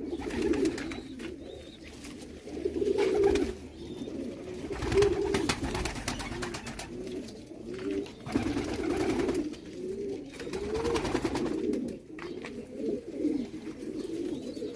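Domestic pigeons cooing in a loft, several birds' low, rolling coos overlapping one another without a break, with scattered light clicks.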